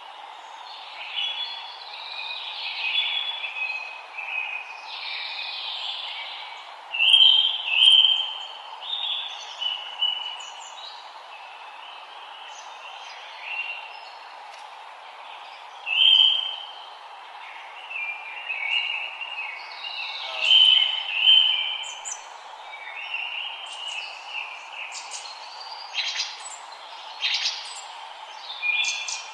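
Several forest songbirds singing and chirping in short, overlapping phrases, over a steady background hiss.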